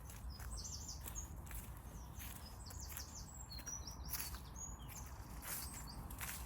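Small songbirds chirping in clusters of short, high calls, with rustling footsteps on a woodland path in between.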